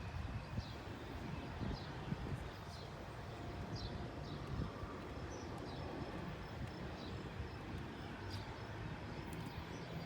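A small bird chirping over and over, short falling chirps about once a second, over a low steady rumble.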